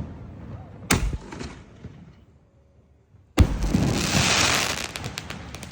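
Canister shell firework: a sharp bang about a second in, typical of the lift charge firing it from the mortar tube. About two and a half seconds later comes a louder bang, the shell bursting, followed by a second and a half of dense crackling.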